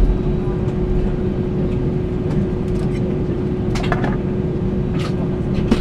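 Steady low rumble and hum of a vehicle interior in motion, with one constant droning tone throughout. There are a few faint clicks or snatches of sound about four and five seconds in.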